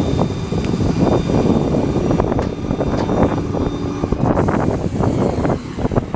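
Truck-mounted air compressor on a service truck running steadily, a loud continuous mechanical drone with a steady hum in it.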